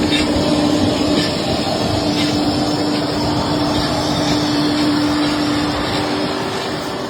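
Steady cabin noise of a private jet: an even rush with a constant hum.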